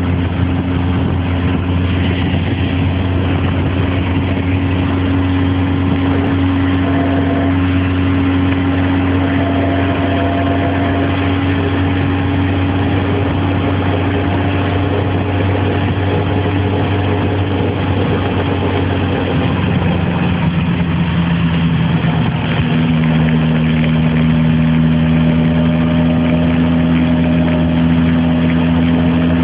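Yamaha XJR1300's air-cooled inline-four engine running steadily under way in fifth gear. It gets slightly louder a little over two-thirds of the way through.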